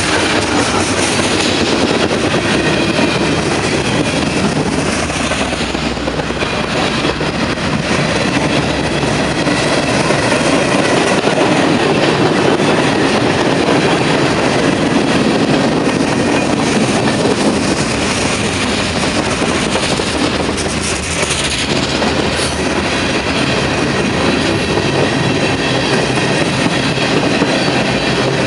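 Freight cars of a long, slow-moving train rolling past at close range: steel wheels rumbling and clacking over the rail, with a faint high wheel squeal.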